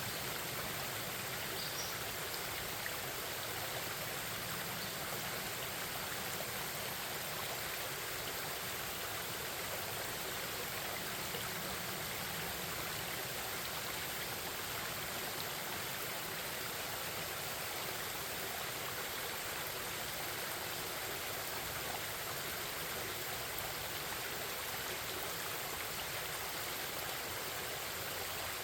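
Forest stream babbling, a steady unbroken rush of running water.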